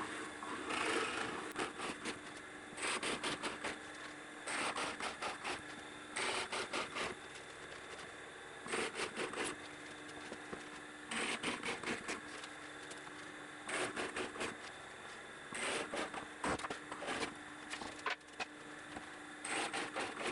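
Drill press running with a steady motor hum while its bit cuts into plywood holes in short, chattering bouts that come back about every two seconds.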